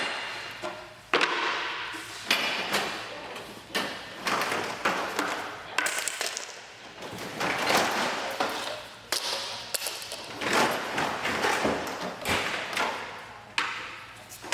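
Clatter of used pipe fittings and hardware being pulled out and tossed around in a truck bed: irregular sharp knocks and pings, some ringing briefly, about one or two a second, with scraping and rustling between them.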